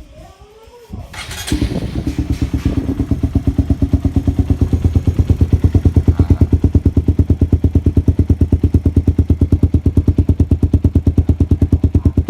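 Honda CB150R's single-cylinder engine starting about a second in, then idling steadily through an aftermarket Akrapovic-style slip-on exhaust, with a loud, even, rapid pulsing exhaust note.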